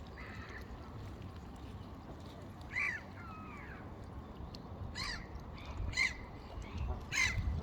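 A bird calling outdoors: four short, harsh calls spaced a second or two apart, the last one the loudest, over a low background rumble.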